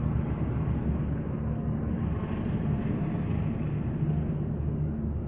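Passenger train coaches rolling past: a steady low rumble of wheels on the rails with a low, even hum underneath.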